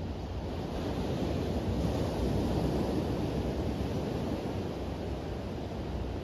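Waves washing onto a beach, a steady rush of surf that swells a little louder in the middle and eases off again. Some wind noise on the microphone.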